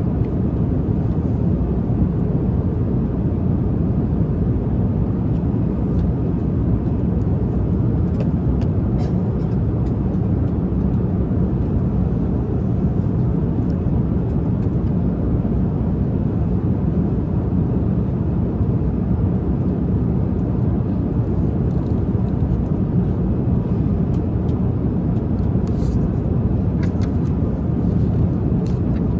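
Steady low rushing noise of an airliner cabin in flight, with a few faint clicks about a third of the way in and again near the end.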